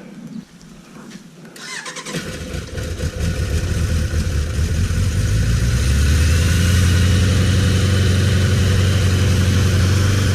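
A 1991 Suzuki GSX1100F's inline-four engine is started about two seconds in. It then runs, growing louder for a few seconds before settling into a steady idle.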